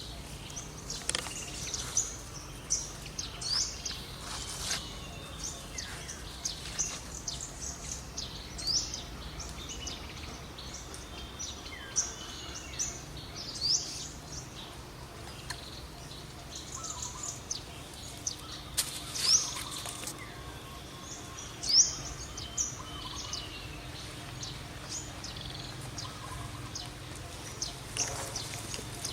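Birds chirping: many short, high chirps scattered irregularly, over steady outdoor background noise, with a few brief clicks or rustles.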